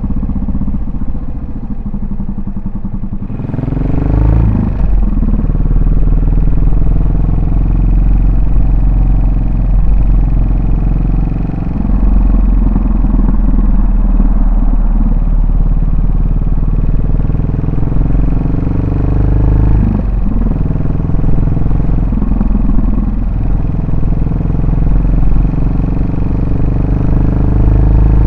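Yamaha SR400's single-cylinder four-stroke engine and exhaust on the move. It runs at low revs at first, then revs up a few seconds in as the bike pulls away. The pitch drops and climbs again several times as it shifts up through the gears and cruises.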